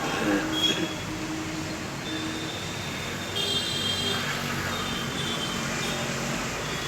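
Steady background traffic noise, with a few thin high tones.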